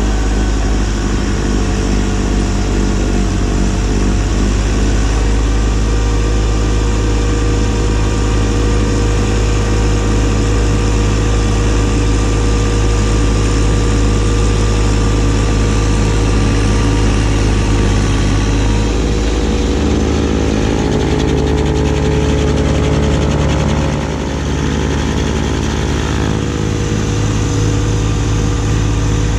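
Kubota B2601 compact tractor's diesel engine running steadily with the B2782B snowblower. About two-thirds of the way through, the engine note shifts lower and the level dips briefly.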